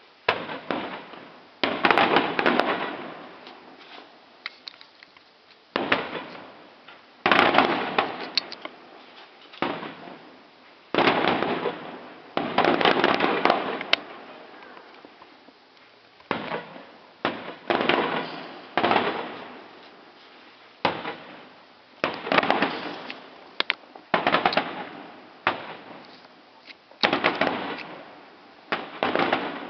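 Fireworks display: aerial shells bursting one after another, a sharp bang every second or two, each followed by a crackling, fading tail.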